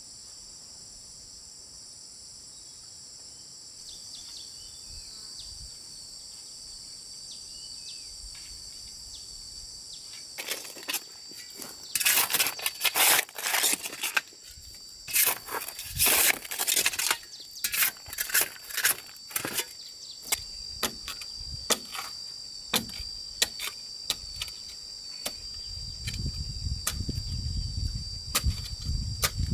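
Insects calling steadily in a high, continuous drone, joined by a steady high tone about four seconds in. From about ten to twenty seconds in comes a dense run of sharp knocks and scrapes from work being done, followed by scattered single clicks and a low rumble near the end.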